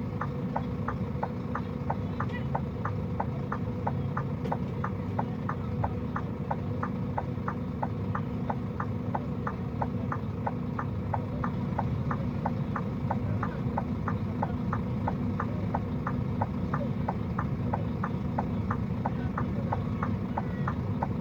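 A car's flasher relay ticking evenly, about three ticks a second, over a low steady engine idle.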